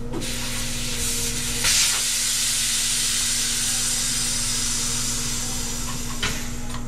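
Pressurised gas hissing hard and steadily through a refrigeration line or torch. It gets louder about a second and a half in, then cuts off suddenly shortly before the end. A steady low machine hum runs underneath.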